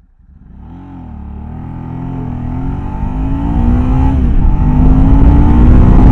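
Ducati Multistrada 1000DS's 992cc air-cooled L-twin engine accelerating and growing steadily louder, its pitch rising, dipping briefly about four seconds in, then climbing again.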